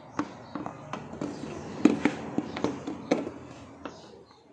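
Irregular clicks and knocks of hands handling and fitting plastic parts and hoses in a car's engine bay, the loudest about two seconds in.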